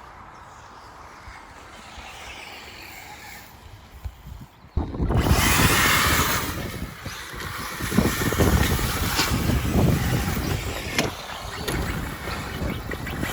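Radio-controlled cars driving on an off-road track, faint at first with a motor note gliding up and down, then suddenly much louder about five seconds in.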